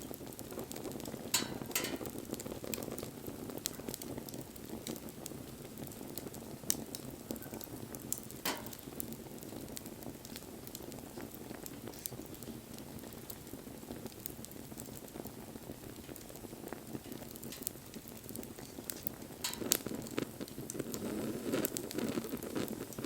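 Wood bonfire burning: a steady rush of flames with scattered sharp crackles and pops from the burning wood, a few of them louder. The flames grow a little louder near the end.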